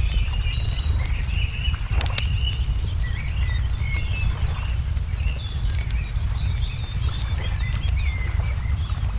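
Layered lakeside ambience: songbirds chirping and whistling in short gliding notes, with scattered sharp crackles and pops of a wood fire, one louder snap about two seconds in, all over a steady low rumble.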